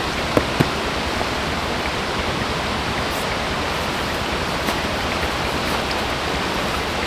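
Forest stream rushing steadily over rocks, with two brief clicks about half a second in.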